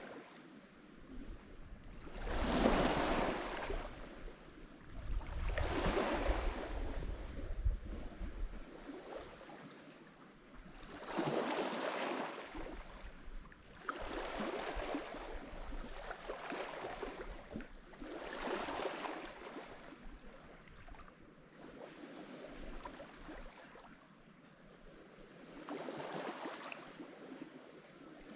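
Lake Michigan waves crashing on the shore, each wave swelling to a hiss and fading, a new one every few seconds.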